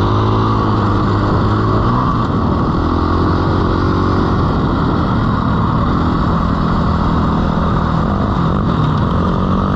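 Dirt bike engine running continuously as it is ridden, its pitch rising and falling with the throttle.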